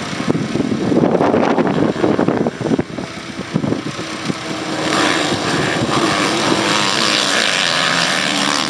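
Motocross bike engines racing on the track, revving as they pass; from about five seconds in one bike runs loud and close, held at high revs.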